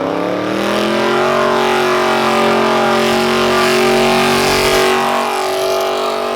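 A car engine revs up over about a second and holds steady at high revs, with a hiss building under it.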